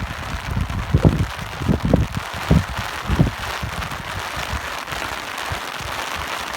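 Steady rain hissing, with low gusts of wind rumbling in and out during the first half, after which the rain carries on alone.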